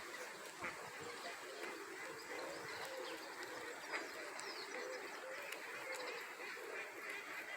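Faint calls of waterfowl, ducks and geese, mixed with other bird calls in a steady background chatter.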